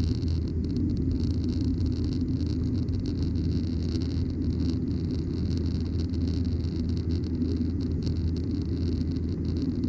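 Cabin noise of a Boeing 737-900ER in flight: its CFM56-7B turbofans and the airflow over the fuselage give a steady low drone with a hiss above it.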